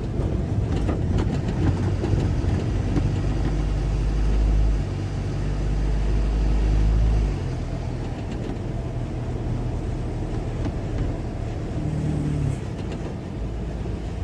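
Engine and road noise of a moving car, heard as a steady low rumble that is heaviest in the first half and then eases off.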